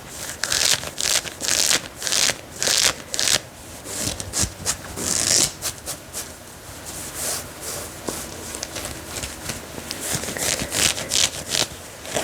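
Dress fabric being scratched in rhythmic strokes, about two a second at first, then softer rubbing, then a quicker run of scratches near the end.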